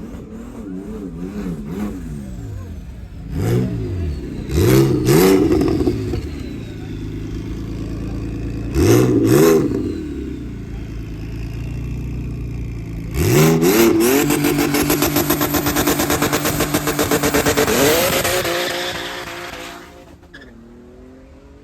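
Car engine revved in sharp blips several times, then held at full throttle for about six seconds before dropping away.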